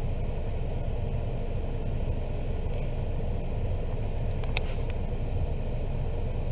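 Steady low rumble of a car heard from inside the cabin, its engine running with no change in pace.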